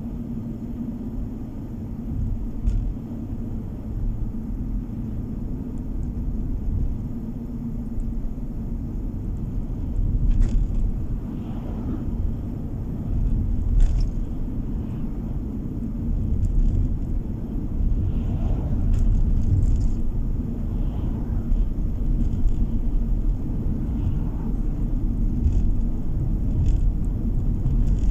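Car driving on the road, heard from inside the cabin: a steady low rumble of tyres and engine with a faint hum, and a few light knocks from bumps in the road.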